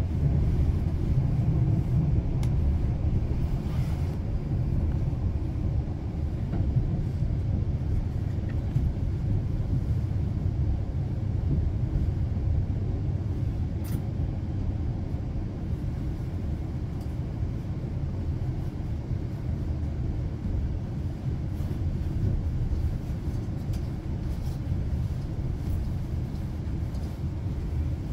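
Steady low rumble of a Class 350 electric multiple unit heard from inside the carriage as it runs along the track, easing slightly in loudness toward the end as the train nears its final stop.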